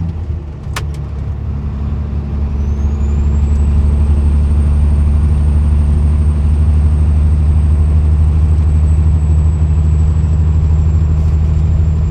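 Peterbilt 379's Cat C-15 diesel engine running, heard from inside the cab, building in loudness over the first few seconds and then running steadily. A thin high whistle rises about two and a half seconds in and then holds. A sharp click comes just under a second in.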